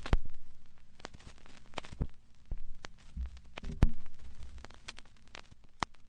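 Irregular clicks and knocks over a faint low hum. The loudest knocks come just after the start and about four seconds in.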